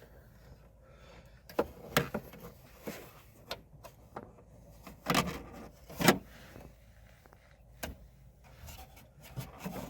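Scattered light clicks, knocks and rubbing of hand tools and parts being handled at a truck's accelerator pedal, with two louder knocks about five and six seconds in.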